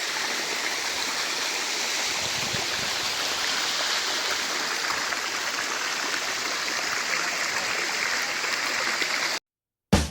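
Waterfall rushing, a steady even roar of falling water that cuts off abruptly near the end.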